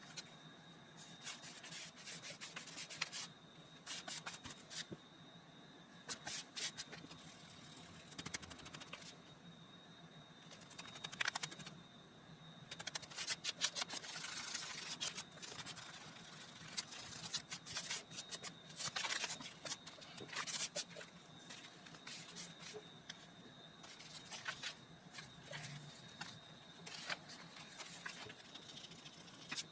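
Paper and craft materials being handled: irregular rustling and scraping with scattered light taps and clicks, a denser run of rustling near the middle.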